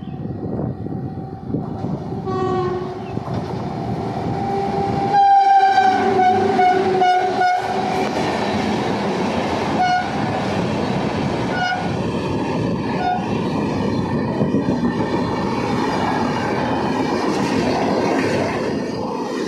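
A train running past with a steady rumble and clatter of wheels on rails. Its locomotive horn sounds a short blast, then a long blast, then several short toots.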